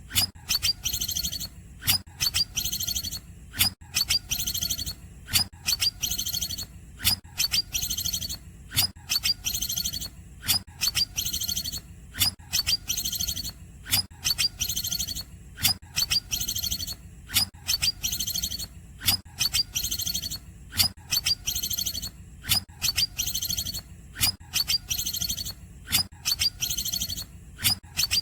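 Green leafbird (cucak ijo) singing in the cungkokan style: a short, sharp, high-pitched phrase of clipped notes and a trill, repeated over and over at about one a second.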